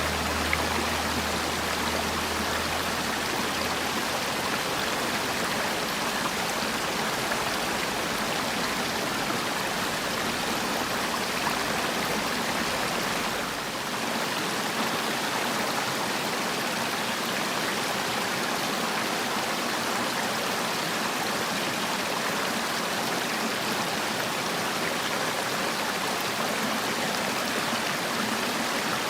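Mountain valley stream flowing, a steady, even rush of running water, with a brief slight dip in level about halfway through.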